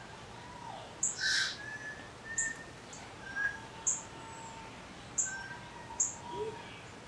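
Birds chirping: short high chirps every second or so, a louder one about a second in, with thin whistled notes in between.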